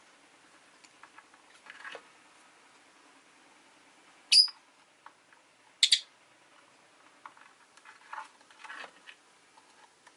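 Rosy-faced lovebirds: two short, sharp, high-pitched chirps about a second and a half apart near the middle, with quieter scratchy chatter and small clicks before and after.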